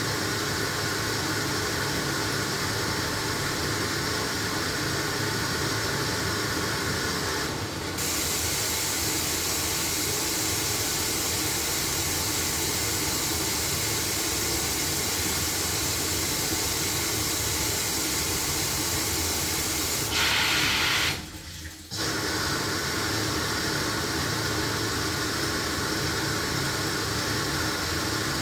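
LG washing machine running, with water hissing in as it fills from about a quarter of the way in. The hiss stops abruptly about three quarters of the way through, with a brief dip almost to quiet before the machine's steady running resumes.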